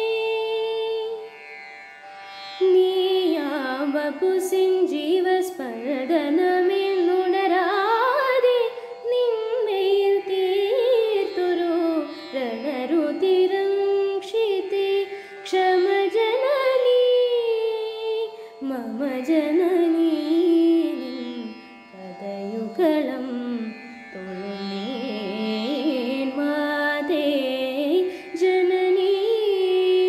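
A woman singing a wordless, Carnatic-style melodic passage with gliding, ornamented pitch over a steady drone, pausing briefly between phrases.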